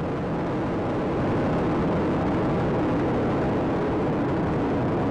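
Space Shuttle Atlantis's three main engines and solid rocket boosters at full thrust during ascent: a steady, deep rumbling noise of rocket exhaust that grows slightly louder about a second in.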